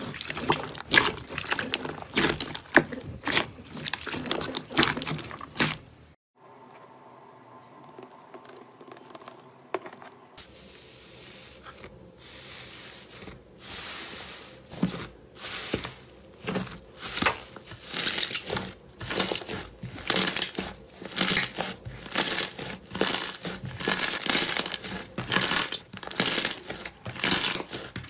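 Slime being squeezed, pressed and stretched by hand, making many quick crackling and popping sounds. The crackling drops away about six seconds in, stays quiet for a few seconds, then returns and grows denser toward the end.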